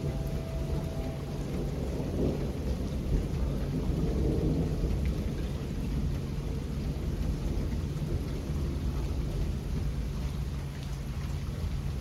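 Steady rain with a low rumble of thunder that swells about two to five seconds in.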